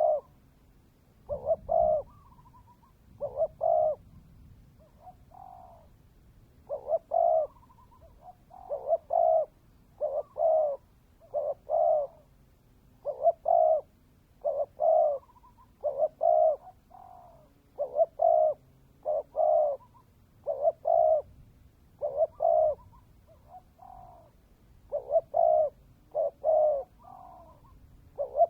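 Spotted dove cooing over and over, in short phrases of two or three low, mellow notes that repeat every second or two without a break.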